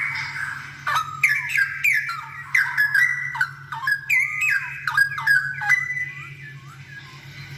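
Straw-headed bulbul singing a loud, fast burst of bubbling notes, each starting sharply and sliding down or arching, from about a second in until about six seconds in, then trailing off fainter. A steady low hum runs underneath.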